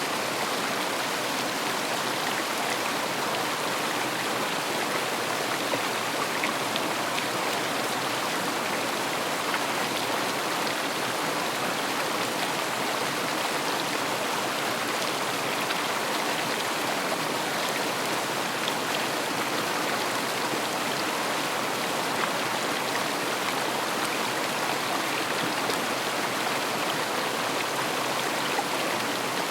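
River water rushing and splashing in a steady, unbroken stream, with small splashes flicking through.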